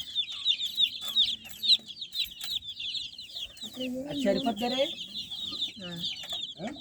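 Several baby chicks peeping continuously, a dense stream of short, high, downward-sliding chirps.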